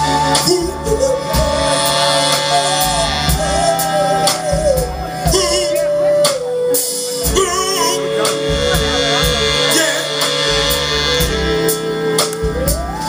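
Live soul band playing: drums and bass under long held notes that step from pitch to pitch, with some singing.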